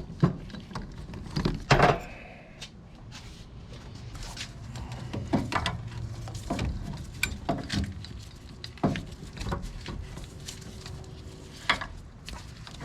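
Metal hand tools and parts clinking and knocking at irregular intervals, as they are picked up, set down and handled.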